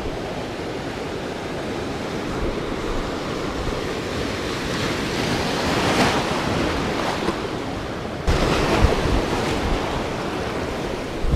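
Wind blowing on the microphone over the wash of the sea, swelling about halfway through and turning louder and gustier with low buffeting for the last few seconds.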